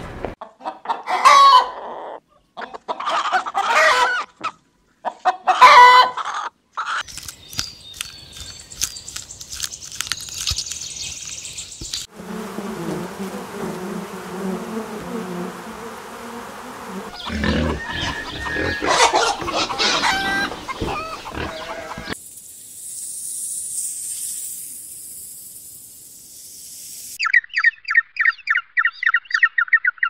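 A string of animal sounds cut one after another. Chicken calls fill the first seven seconds. In the middle, honeybees buzz as a steady low hum. Near the end, Humboldt penguins give quick, rapidly repeated chirping calls.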